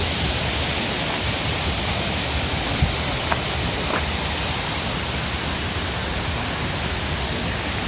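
Steady rushing noise throughout, with a couple of faint short clicks about three seconds in.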